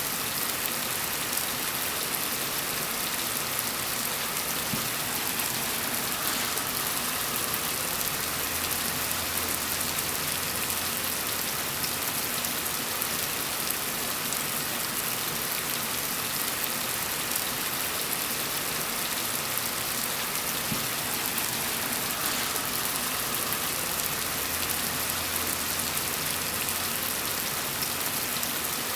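Steady rain falling: an even, unbroken hiss of many drops landing on a surface.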